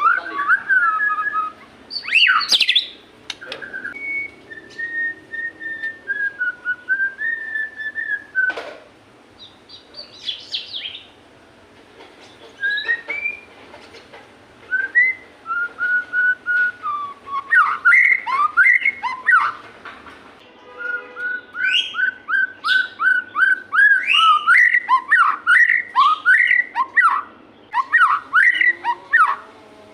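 White-rumped shama (murai batu) singing a varied run of clear whistled phrases. It opens with a long wavering whistle, then turns to loud, quick phrases in the second half, including a fast run of repeated notes.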